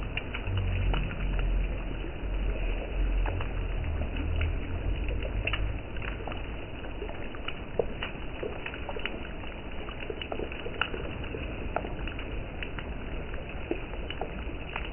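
Rain: scattered raindrop clicks and a light patter on the microphone, over a low rumble that drops away about six seconds in.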